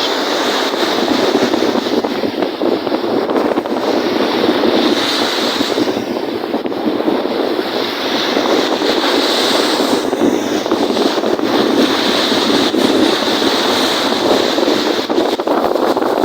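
Strong wind buffeting the microphone over waves washing on a lake: a loud, steady rushing that swells and eases every few seconds.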